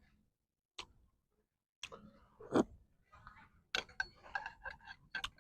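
Close-up mouth sounds of someone eating: scattered wet clicks and short crunches of chewing, coming thicker in the second half.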